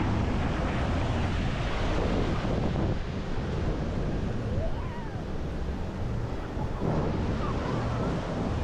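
Wind buffeting the microphone outdoors: a steady rushing noise with an uneven low rumble, and a faint rising-and-falling chirp about halfway through.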